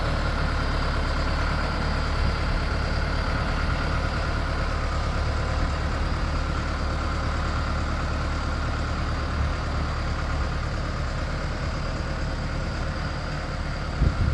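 A heavy engine running steadily at an even speed, with a couple of sharp knocks near the end.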